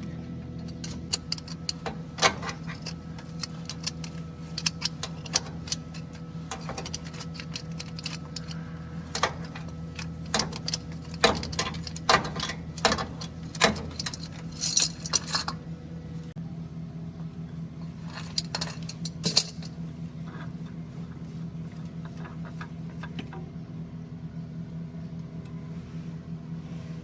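A steady low engine hum with many sharp metallic clinks and rattles over it for the first twenty seconds or so, then just the hum.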